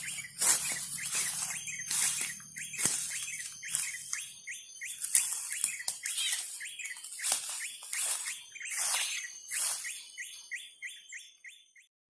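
Bird calling: a long series of short, downward-sweeping chirps, a few a second, quickening into a rapid run near the end before stopping abruptly.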